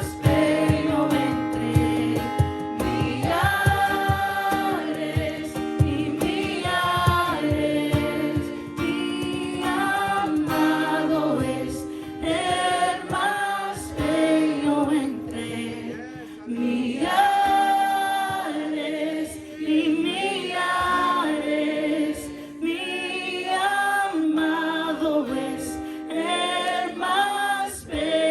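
A group of voices singing a worship song together over musical accompaniment, with a rhythmic low beat in the first few seconds.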